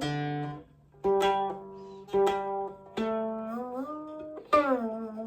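Solo Chinese zither played slowly: about five separate plucked notes ring and fade, and the later ones are slid up and down in pitch while they sound.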